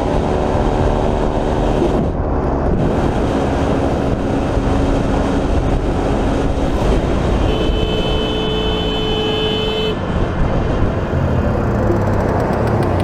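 Motorcycle riding in traffic, with steady engine and wind noise. A vehicle horn sounds for about two and a half seconds past the middle.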